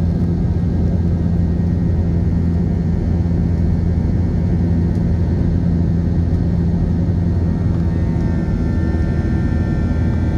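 Airliner engines and rushing air in the takeoff climb: a steady, loud, low rumble with constant low engine tones. About eight seconds in, a set of higher whining tones joins it.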